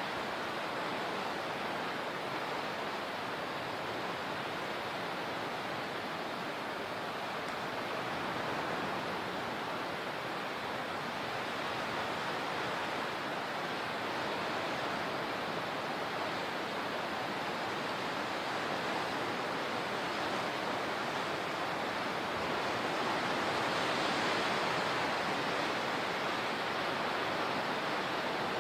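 Steady rushing of moving water, swelling gently about a third of the way in and again near the end.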